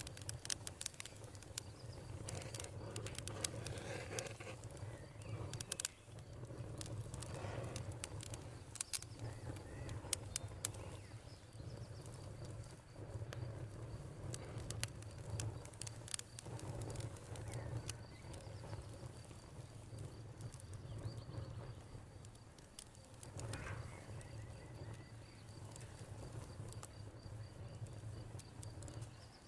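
Campfire crackling: frequent sharp pops and snaps over a low steady rumble, the pops thickest in the first dozen seconds and sparser after that.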